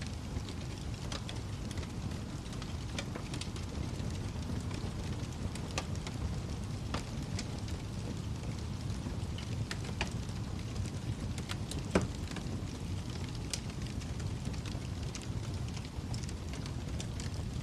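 Wood fire crackling in a fireplace: a steady low rumble of flames with scattered pops and crackles, one louder pop about twelve seconds in.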